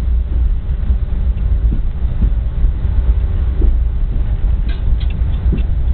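Passenger train coach running on the track, heard from inside through an open window: a steady low rumble of wheels on rail and wind, with a few light knocks and some faint high squeaks near the end.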